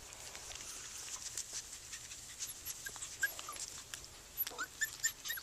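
Yorkiepoo puppies whimpering faintly in short, high squeaks, more of them in the second half, with scattered light clicks.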